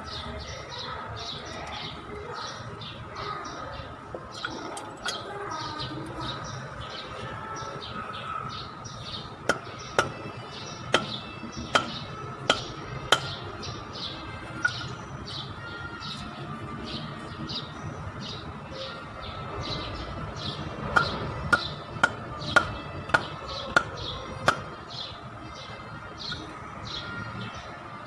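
Birds chirping over and over, a few short calls a second. Two runs of sharp taps are the loudest sounds: about six taps beginning near ten seconds in, and about seven quicker ones beginning a little past twenty seconds.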